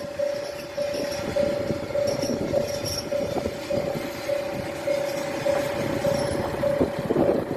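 A level-crossing warning bell chiming steadily, about two strokes a second, over the low rumble of Hojo Railway diesel railcars standing at the platform.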